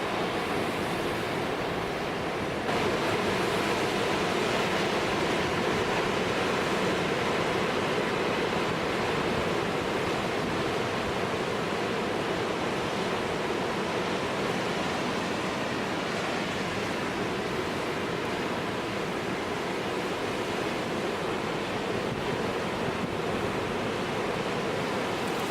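Heavy winter storm surf breaking against a rock jetty in high wind: a steady, dense rush of water noise that gets louder about two and a half seconds in.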